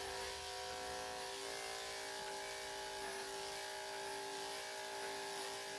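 Electric dog grooming clippers running with a steady, even hum.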